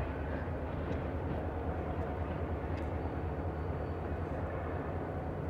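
Distant diesel-hauled train running past, a steady low rumble.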